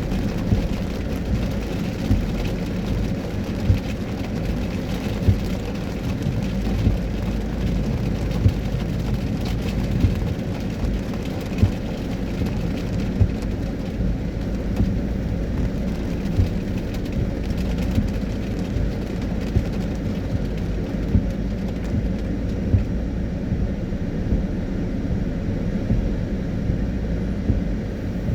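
Car driving on a wet road in rain: a steady low rumble of road and engine noise, with a short thump repeating about every second and a half.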